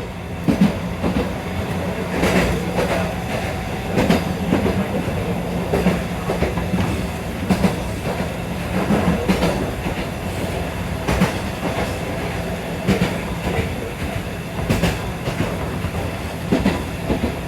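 Fukui Railway train running along the line: a steady hum with its wheels clacking over the rail joints every second or two.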